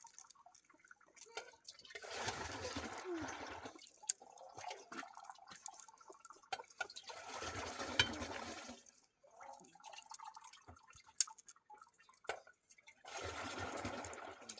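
Liquid splashing and sloshing in three bouts of about two seconds each, with faint drips and ticks in between.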